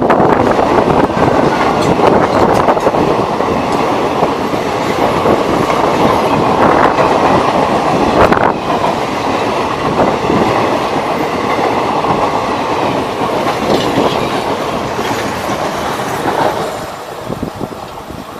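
Passenger coaches of an electric-locomotive-hauled Indian Railways express train running past at speed, their wheels clattering over the rail joints. The sound falls off near the end.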